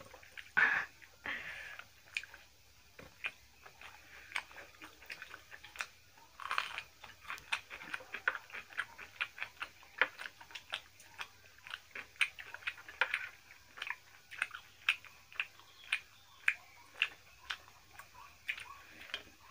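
Close-up eating sounds: wet chewing and smacking of mouths working through rice and mutton curry, a run of short, sharp clicks at an irregular pace, a few a second.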